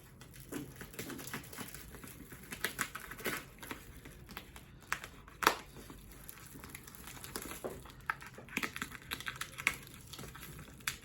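Plastic packaging wrap crinkling and crackling as it is cut and pulled open by hand, with many irregular small clicks and one sharper snap about five and a half seconds in.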